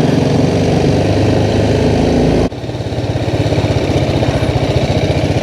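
BMW G310R's single-cylinder engine running. The sound breaks off abruptly about two and a half seconds in, and after that the engine runs with an even, fast pulsing beat.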